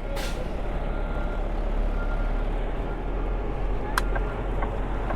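Semi truck's diesel engine running with a steady low rumble, with a short hiss at the start and a sharp click about four seconds in.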